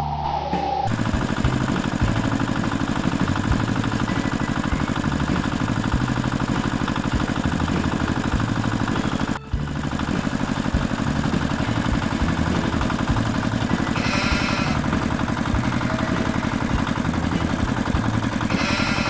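Tractor engine running steadily with an even, rapid firing beat; it briefly cuts out about halfway through. Two short bursts of hiss sound over it, one about three quarters of the way through and one at the very end.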